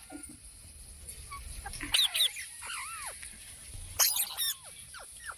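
Parrot giving short, sharp squawks and arched chirping calls in two clusters, about two seconds in and again about four seconds in, with a few quick falling chirps near the end.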